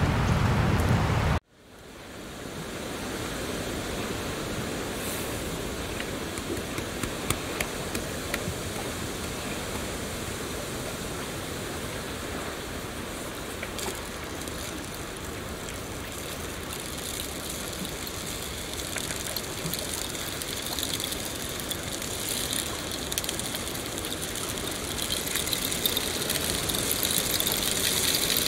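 Steady rain: a dense hiss of falling drops with scattered small ticks. About a second and a half in it cuts out and fades back in, now rain falling on open water, and it grows brighter and a little louder near the end.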